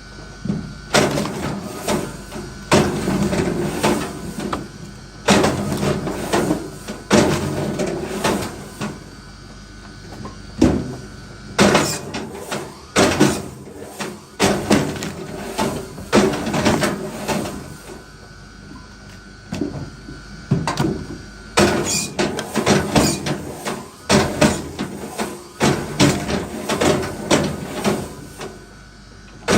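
Irregular knocks, clatter and scraping of wood being handled and worked, in short bouts with brief pauses between them.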